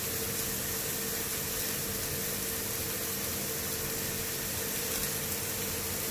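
Steady sizzling hiss of chopped onion, garlic, carrot and broccoli frying in a hot roasting pan, over a steady hum.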